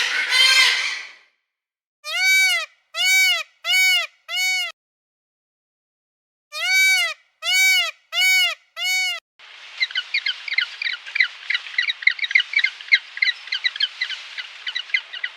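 Farm birds calling: a harsh call at the start, then two runs of four rising-and-falling honks, then the continuous high chatter of a flock of birds.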